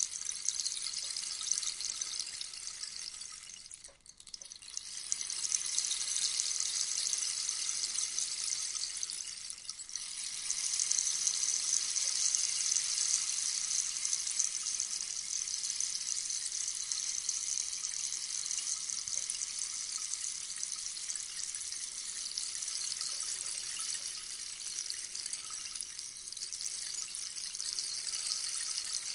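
Rainstick: a steady, hissing cascade of small pellets trickling through the tube. It fades almost out about four seconds in and swells back as the stick is turned over, with a smaller dip and swell about ten seconds in.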